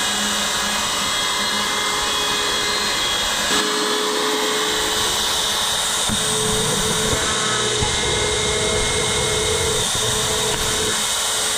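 Ryobi handheld router running steadily at high speed while routing a cut-out, its motor whine shifting a little in pitch a few seconds in and again about halfway through.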